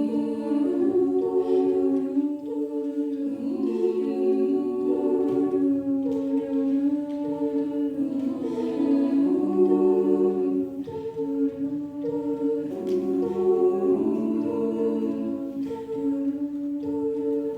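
A cappella vocal group singing in close harmony, several voices holding sustained chords that change every second or so, with no instruments.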